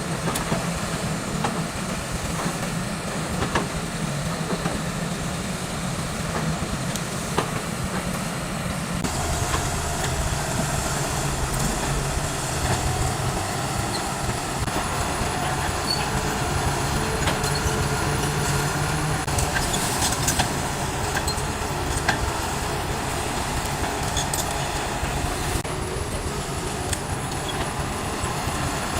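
Heavy diesel earthmoving machinery running steadily, with scattered clanks and clicks. The engine note gets heavier and louder about nine seconds in.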